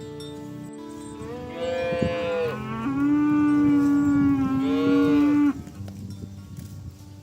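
A cow mooing: one long, drawn-out call of about four seconds that rises and falls in pitch and cuts off suddenly.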